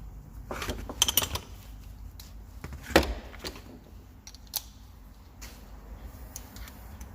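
Metal hand tools clicking and clinking on a 1.9 TDI PD cylinder head as they are handled between injector clamp bolts. A quick run of clicks comes about a second in, one sharp metallic knock about three seconds in, and a lighter click later.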